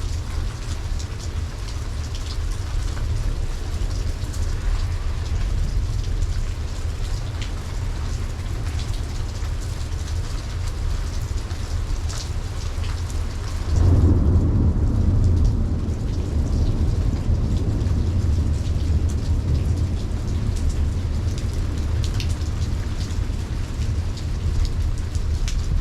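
Steady rain falling, with scattered heavy drops striking close by. About halfway through, thunder breaks in suddenly and rolls on as a long low rumble.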